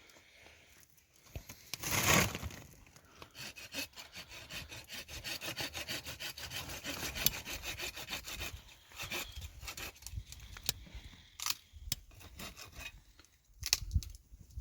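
Hand saw cutting wood with quick, even back-and-forth strokes for several seconds, then stopping, followed by a few scattered knocks.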